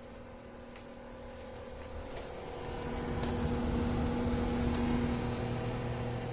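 An electric fan heater running with a steady motor hum under the rush of its fan. The sound swells about halfway through and then eases off a little, and there are a few faint clicks in the first few seconds. The hum is noisy for a heater.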